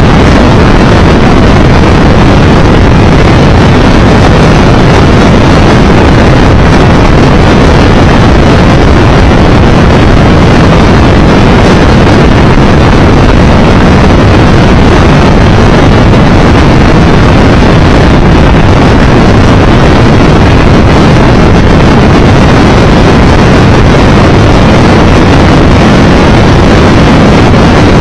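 Loud, steady wind roar over a camera microphone on a Triumph Tiger Explorer 1200 motorcycle riding at road speed, with the bike's running engine and road noise mixed in underneath.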